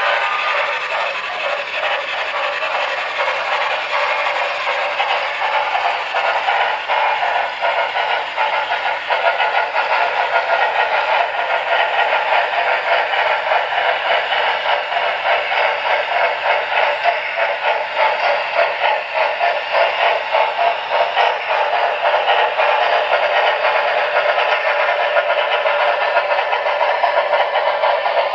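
Model steam locomotive sound systems running steadily, with rapid chuffing through small onboard speakers over wheels clattering on the track. It has no deep bass and grows busier about a third of the way in.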